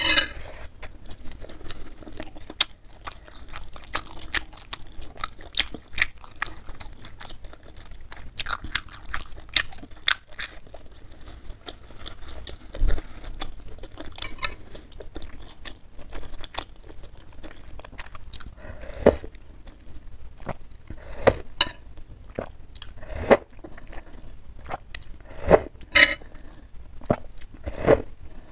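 Close-miked chewing of beef meatballs and fatty beef tendon: a steady run of wet mouth clicks and smacks, louder and sharper in the second half.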